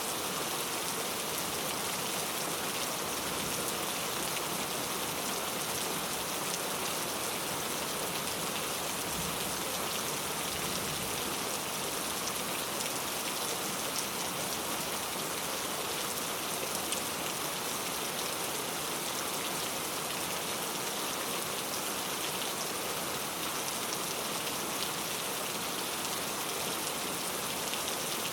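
Steady rain falling, a dense even hiss of drops hitting a surface, with no thunder or other events.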